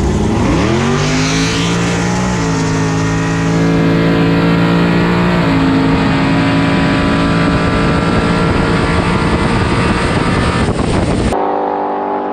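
Car engine at full throttle on a drag-race pass, its pitch climbing and then dropping at upshifts about two and five seconds in, then holding high and steady before it cuts off abruptly near the end.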